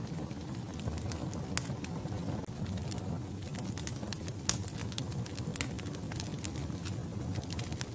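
Wood fire burning in a fireplace: a steady low rumble of flames with irregular sharp crackles and pops from the logs, the loudest pops about one and a half and four and a half seconds in.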